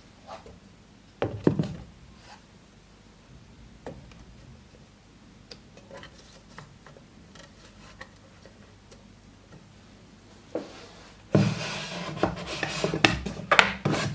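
Objects being handled: a few light knocks and taps, louder about a second in, then several seconds of rubbing and scraping with sharp clatters near the end.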